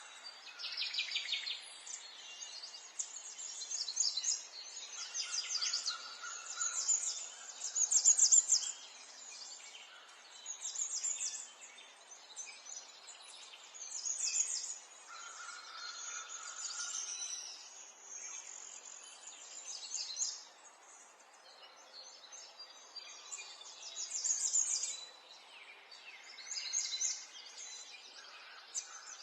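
Small songbirds chirping and trilling in many short, high-pitched bursts, overlapping and coming and going, over a faint steady background hiss.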